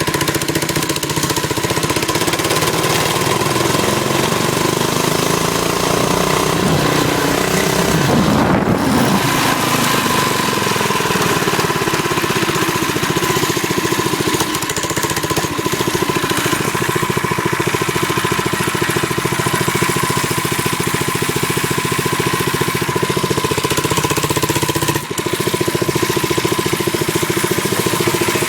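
Baja Doodlebug minibike's Predator engine running under way. Its pitch swings up and back down about eight seconds in, and the sound dips briefly near the end.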